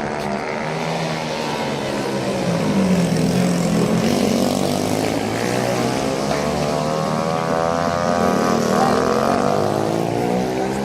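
Several racing motorcycle engines revving together, their pitches rising and falling as they accelerate and pass, growing louder about two and a half seconds in.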